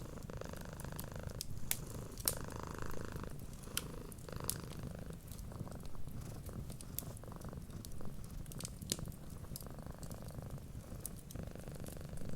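A cat purring steadily, in slow cycles about a second or so long, over the crackle of a wood fire, whose sharp pops and snaps land irregularly throughout.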